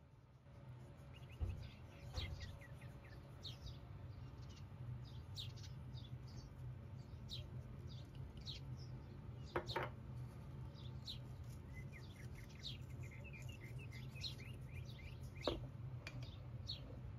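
Small birds chirping, with many short, quick calls over a steady low hum, and two sharp clicks, one about halfway through and one near the end.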